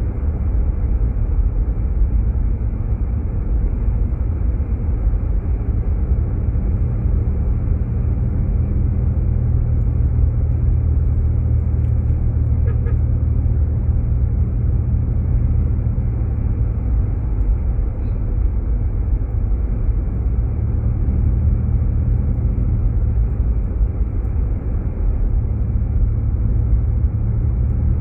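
Jeep Grand Cherokee driving, heard from inside the cabin: a steady low rumble of tires and engine.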